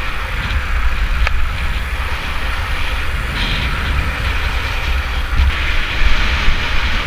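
Wind buffeting the microphone of a camera on a moving rider, a loud low rumble with rushing road noise, and a brief click about a second in.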